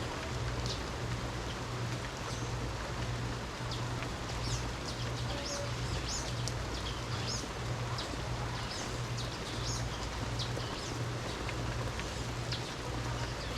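Steady rain hiss with many short, high bird chirps scattered throughout, over a low hum that pulses on and off about once a second.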